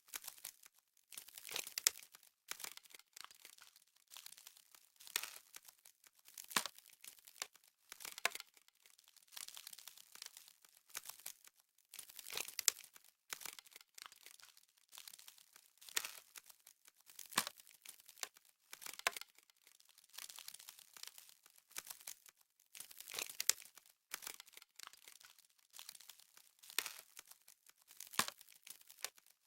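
Frost crunching: crisp crackling bursts, about one every second and a half.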